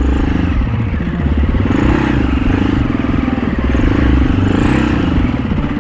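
Husaberg FE 650 single-cylinder four-stroke dirt bike engine running under light throttle while being ridden, its pitch rising and falling repeatedly as the throttle is opened and eased.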